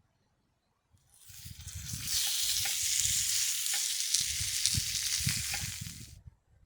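Pork sizzling in a hot cast-iron pan, a steady hiss with scattered crackling pops. It swells up about a second in and cuts off shortly before the end.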